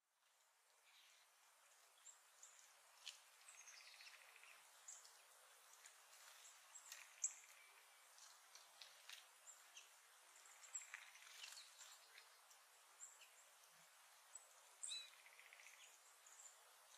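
Faint outdoor birdsong: small songbirds giving many short, high chirps, with a couple of brief buzzy trills, over a steady hiss. It fades in at the start.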